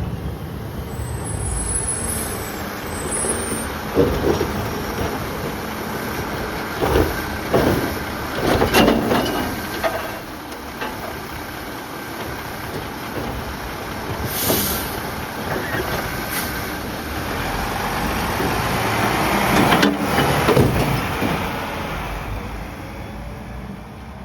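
Mack LR side-loader garbage truck with a New Way Sidewinder body at work: its diesel engine running, with several sharp knocks and a short air-brake hiss about halfway through. The sound fades near the end.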